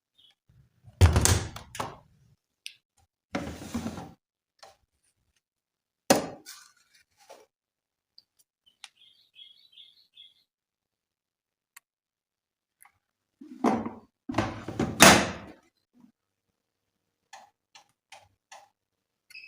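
Household handling sounds: a few separate knocks, thuds and clatters of objects being set down and moved, the loudest cluster about two-thirds of the way in, with a few light ticks near the end.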